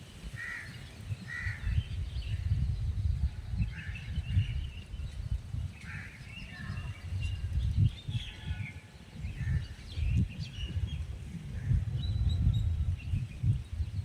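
Scattered bird calls and short chirps, several at a time, over a loud, uneven low rumble.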